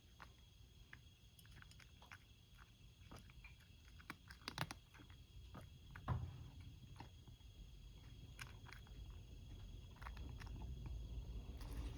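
A cat crunching dry kibble: a faint, irregular run of small crunching clicks, a few louder ones about four and a half and six seconds in.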